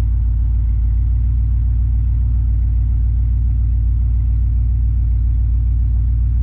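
Steady low rumble of a 1993 Chevrolet Caprice wagon's 305 V8 running, heard from inside the cabin. The engine tends to stall and is being kept running by holding the throttle.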